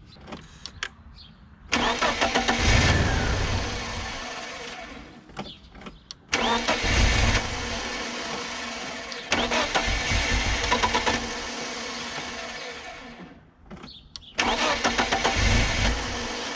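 BMW M43 four-cylinder engine being started three times with a new aftermarket idle control valve fitted. Each start comes in suddenly, about 2, 6 and 14 seconds in, and the running sound then falls away over a few seconds.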